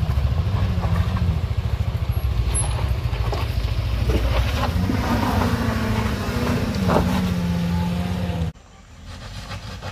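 A minivan's engine labouring under load as it climbs a steep dirt slope, with a low steady rumble. The engine note rises in the middle, then holds steady before the sound cuts off abruptly about eight and a half seconds in, leaving quieter engine noise.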